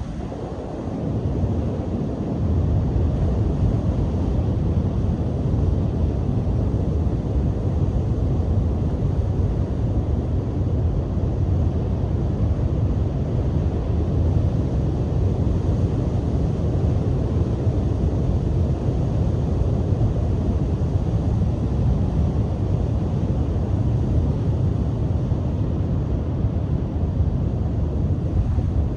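Strong sea wind buffeting the microphone, a steady low rumble, over surf breaking on the beach.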